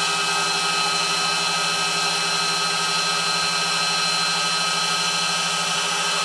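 Dumore internal tool post grinder running steadily on a test run: an unchanging motor-and-spindle whine made of several steady tones.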